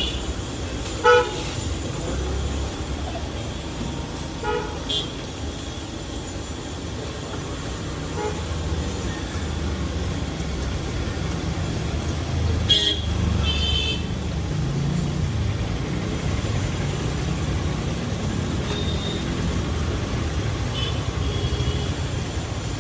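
Street traffic with a steady engine rumble and several short vehicle horn toots: the loudest about a second in, then others around five seconds, around thirteen seconds and near the end.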